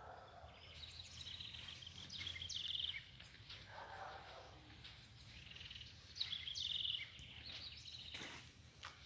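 Songbirds singing: short, high, buzzy trilled phrases repeated three or four times, a few seconds apart, over a faint steady background hum.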